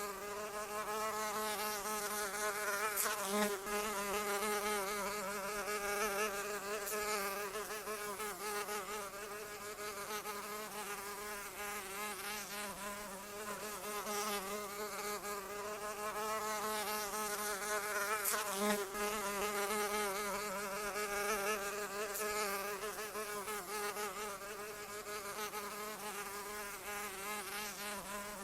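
A flying insect buzzing continuously, its pitch wavering up and down, with faint clicks twice.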